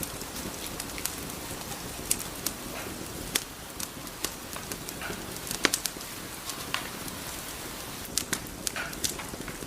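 Wood fire crackling in a fireplace: a steady soft hiss with sharp pops and snaps at irregular intervals, several of them close together near the end.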